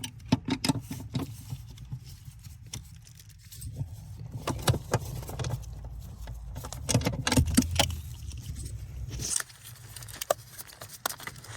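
Socket wrench on an extension clicking and metal tools clinking while loosening the fuse box mounting bolts. A low steady hum runs underneath and cuts off about nine seconds in.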